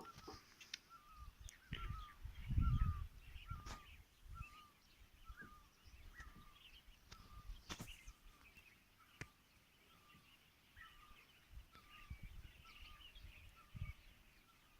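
A bird repeats a short, slurred call note over and over, roughly one to two a second, with fainter higher chirps from other birds behind it. A low rumble swells about two to three seconds in, and a few sharp clicks sound.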